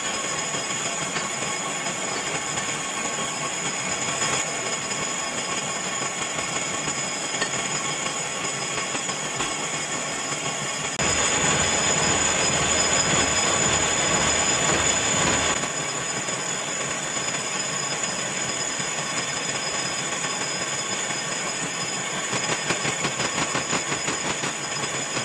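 Metalworking machinery running: a steady mechanical rush with a high, steady whine, louder for a few seconds about halfway through, and a fast rhythmic pulsing near the end.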